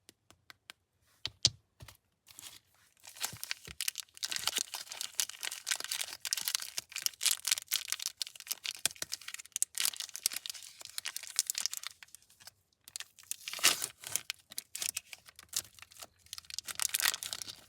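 Plastic candy wrapper being torn open and crinkled by hand: a few sharp clicks at first, then sustained crackling and tearing with a brief pause about twelve seconds in.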